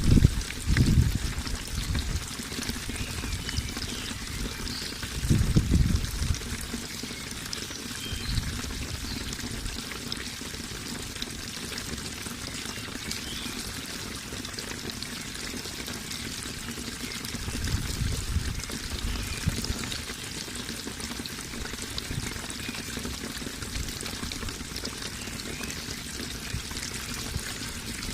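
Running water pouring and trickling steadily, with a few low rumbling swells: one about a second in, one around six seconds, and a longer one around eighteen to twenty seconds.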